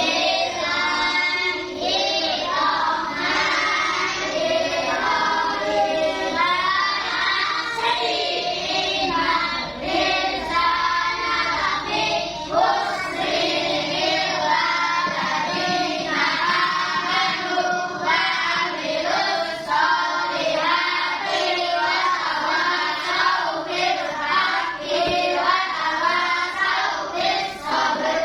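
A group of young schoolchildren singing a song together, without a break.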